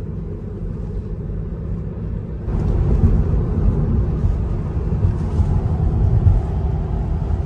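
Road and wind noise inside an electric car's cabin at speed: a steady low rumble of tyres on the road that gets louder and hissier about two and a half seconds in.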